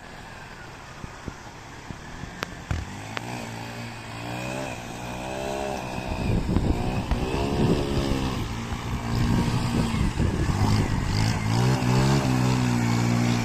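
Yamaha XTZ 125's single-cylinder four-stroke engine revving up and down as the motorcycle is ridden. It grows louder from about four seconds in and is loudest near the end.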